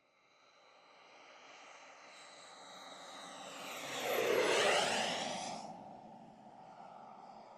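Radio-controlled model aircraft flying past. It builds steadily, is loudest a little past halfway, with a high whine that drops in pitch as it passes, then fades away.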